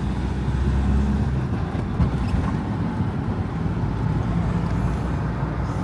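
Campervan engine and road noise heard from inside the cab while driving: a steady low rumble.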